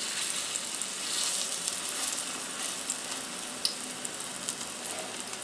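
Butternut squash fritter batter frying in hot grapeseed oil in a pan: a steady sizzle with small pops and crackles throughout.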